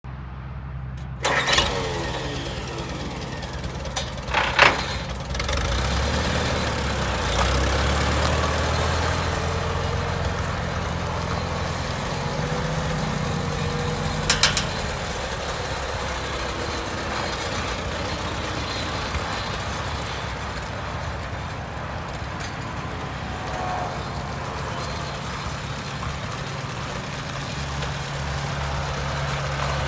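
1954 Allis-Chalmers WD-45 tractor's four-cylinder engine starting up about a second in, with a few loud bangs in the first seconds, then running steadily.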